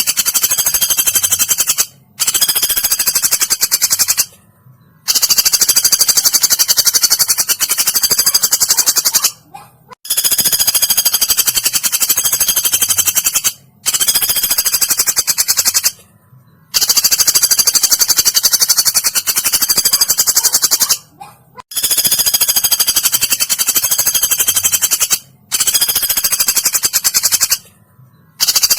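A small woodpecker (pelatuk) giving high, rapid rattling trills, each a fast string of sharp notes lasting two to four seconds, repeated about eight times with short pauses between. It is loud and close, as from a bird-song training recording.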